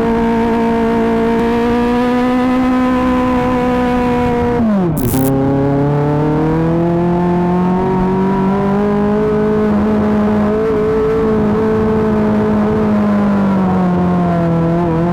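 Kawasaki ZX25R's 250 cc inline-four running at high revs through an Akrapovic GP titanium exhaust. About five seconds in the engine note drops sharply in pitch, then climbs steadily again and holds at a high, fairly even note.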